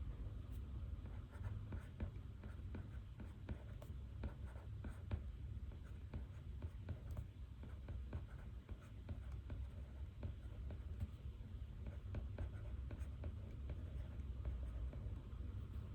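Writing by hand on paper while taking reading notes: a continuous run of small, irregular scratches and ticks from the writing strokes, over a steady low hum of room tone.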